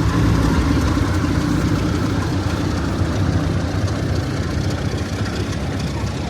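Heritage diesel train engine idling steadily, a low even engine note that gets slightly quieter toward the end.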